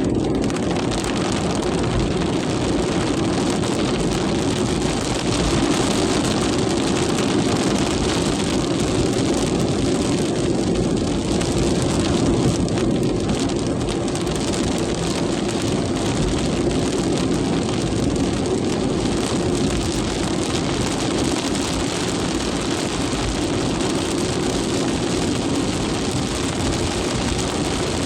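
Heavy rain falling steadily in strong wind, a continuous even noise with a heavy low rumble under it.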